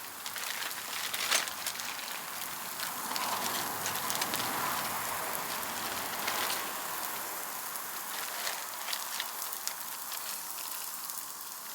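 Frozen veggie chicken strips sizzling and crackling in hot oil in a frying pan, with one sharp crackle about a second in.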